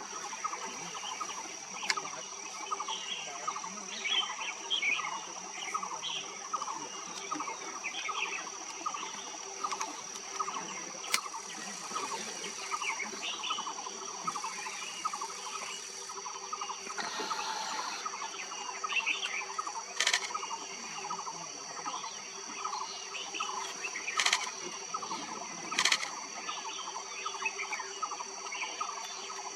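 Forest ambience: many birds calling in quick, short, repeated notes over a steady high insect drone, with a few sharp clicks.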